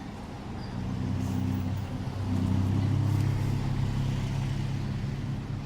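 A motor vehicle engine running close by: a low hum that grows louder from about a second in, peaks mid-way and eases off near the end, as if passing.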